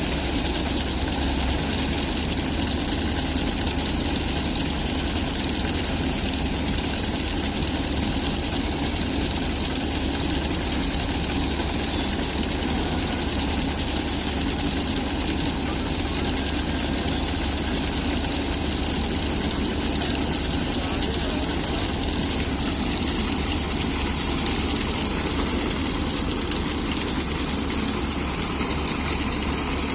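Combine harvester running steadily: a continuous, unchanging engine drone with a strong low hum.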